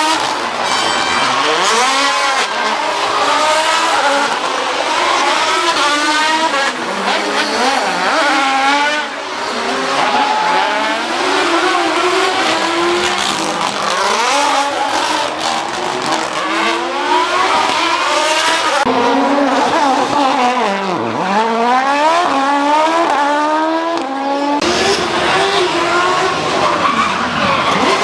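Rally cars at full throttle on a special stage, engine pitch climbing through each gear and dropping on shifts and lift-offs, several car passes cut together one after another.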